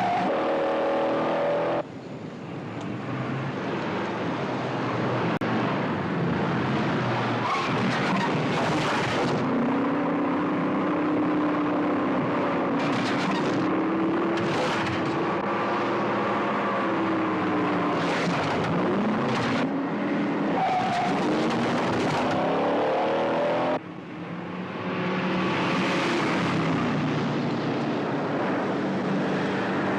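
Movie car-chase sound: car engines revving hard, their pitch climbing and falling, with tyres squealing in several short bursts. The sound drops off abruptly twice, about two seconds in and near 24 seconds, at changes of shot.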